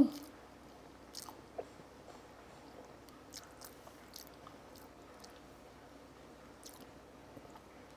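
A person chewing food with faint, scattered mouth clicks and smacks. One brief louder mouth sound comes right at the start.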